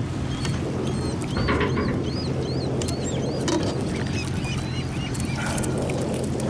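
A quick run of high, rising-and-falling bird chirps from about one to three and a half seconds in, over the steady low hum of an idling boat motor, with scattered splashes of water.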